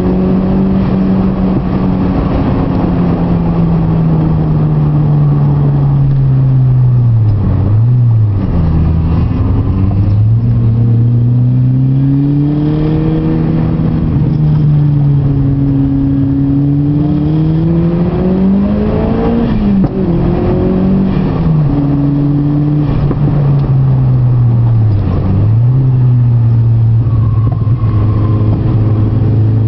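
Mitsubishi Lancer Evolution IV's turbocharged 2.0-litre four-cylinder, heard from inside the cabin, driven hard through the gears: the engine note climbs and falls with throttle and gear changes, with sharp dips about eight seconds in, around twenty seconds in and again about five seconds later.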